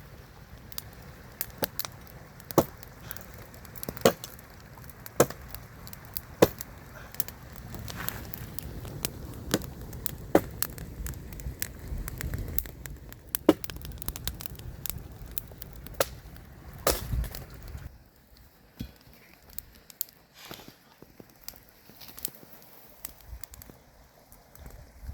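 Wood fire crackling, with sharp irregular snaps and pops over a low rumble. The rumble falls away about three quarters of the way through, leaving fewer, quieter cracks.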